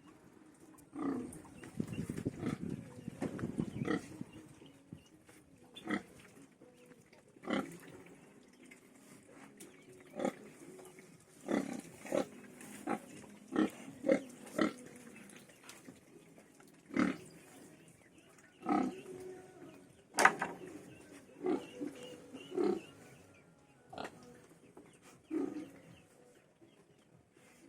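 Domestic pigs grunting: a run of rapid low grunts in the first few seconds, then short separate grunts every second or two. A single sharp knock sounds about twenty seconds in.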